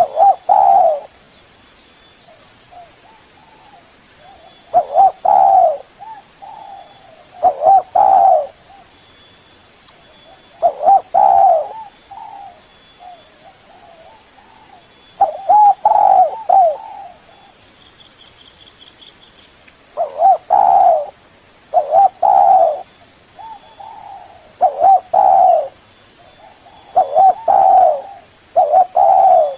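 Spotted dove (tekukur) cooing in repeated phrases: a loud phrase of about a second every few seconds, with softer coos in between. It is the call a dove gives to challenge a rival.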